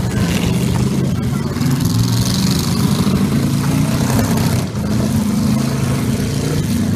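V8 demolition derby car engines running and revving under load as the cars push against one another. The engine pitch rises and falls.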